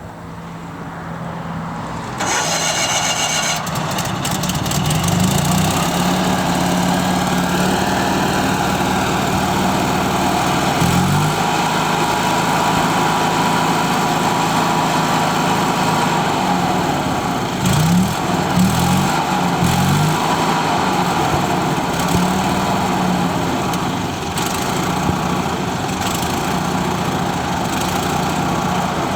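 John Deere 400 compact tractor engine started, catching about two seconds in after a brief starter whine, then running with its speed rising and falling several times.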